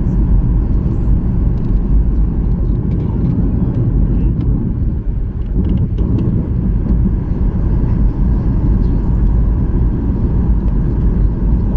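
Steady cabin noise of a Ryanair Boeing 737-800 in flight: the low rumble of its CFM56 engines and the airflow over the fuselage, heard from a passenger seat.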